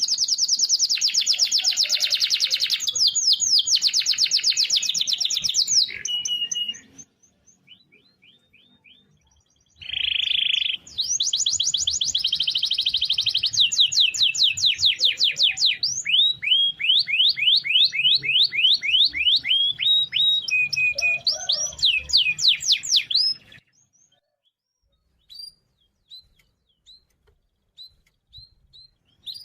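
Domestic canary singing long rolling trills of rapidly repeated rising notes, with a break of a few seconds about seven seconds in. The song stops at about 23 seconds, and a few scattered chirps follow.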